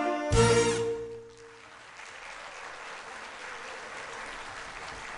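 An ensemble's final held chord rings out and stops about a second in, and the audience applauds steadily after it.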